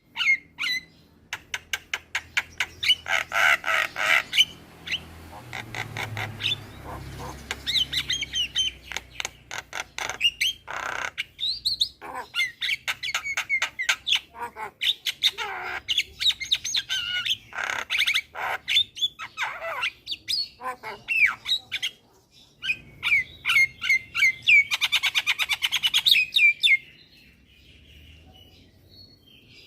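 Javan mynas chattering in fast runs of clicks, harsh squawks and whistled notes, calling almost without pause, quieter for the last couple of seconds.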